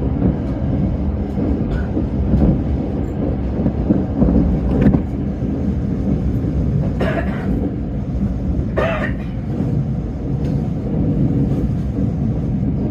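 Tōyō Rapid Railway commuter train running on the line, a steady low rumble of wheels on rail, with a few short higher-pitched sounds around the middle.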